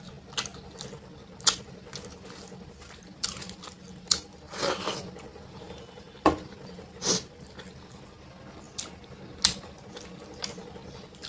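Wet eating sounds of a person eating dal and rice: irregular lip smacks, squelches and chewing, with a couple of longer mouthfuls, over a faint steady hum.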